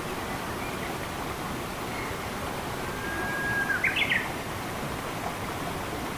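Steady rush of running water, with a songbird calling over it: a long level whistle, then a quick burst of higher notes about four seconds in, plus a couple of faint chirps earlier.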